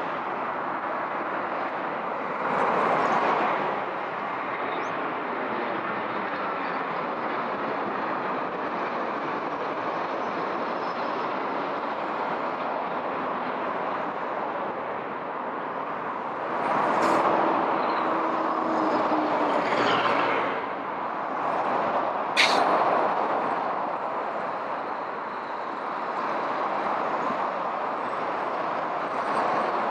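Airbus A320 jet engines, a steady rushing noise that swells several times, with a sharp click about 22 seconds in.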